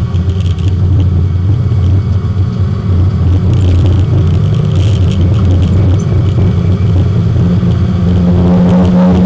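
Porsche 924 race car's four-cylinder engine heard from inside the cabin. A strong, steady engine note falls away at the start to a rougher low rumble at lower load, then builds back to a steady pull near the end.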